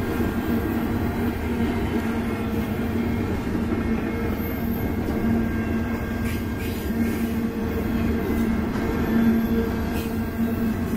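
Freight train of intermodal flatcars carrying highway trailers rolling past, steel wheels on rail making a steady rumble with a constant low hum.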